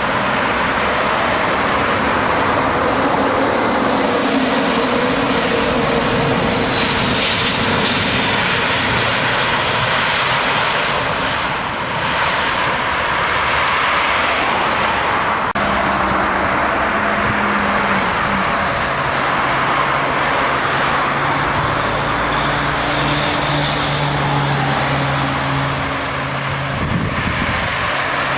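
Jet airliner coming in to land, its engines making a loud, steady noise, with low steady engine hums coming in during the second half.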